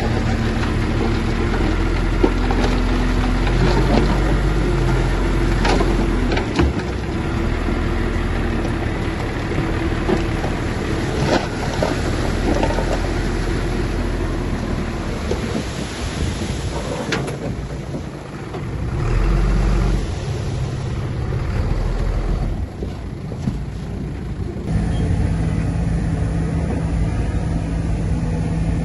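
Heavy diesel earthmoving machinery running continuously, with scattered sharp clanks and knocks. The engine note changes to a new steady pitch near the end.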